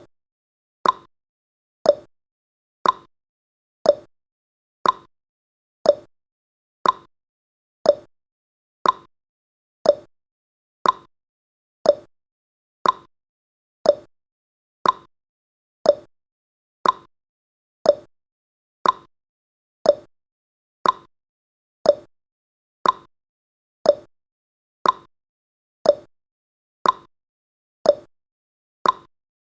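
Clock-ticking sound effect of a countdown timer: a short sharp tick once every second, evenly paced.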